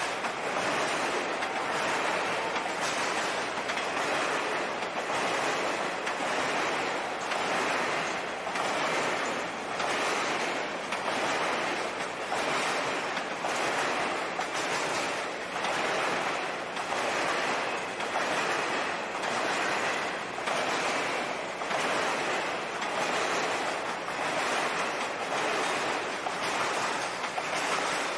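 Triple Crown RoadRailer trailers rolling past on the rails, a steady rushing rumble of wheels on track. It swells in a regular beat every second or so as each trailer's wheel set goes by.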